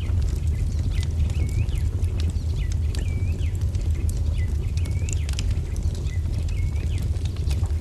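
Wood fire crackling with irregular sharp pops over a steady low rumble, while a bird repeats a short swooping call about once a second.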